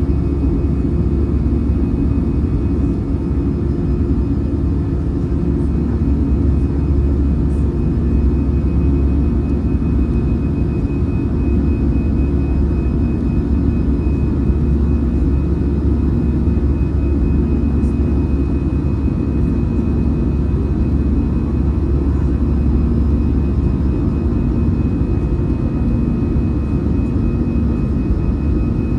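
Airbus A320's CFM56-5B jet engines at climb thrust, heard inside the cabin during the initial climb: a loud, steady low rumble with a faint high whine above it.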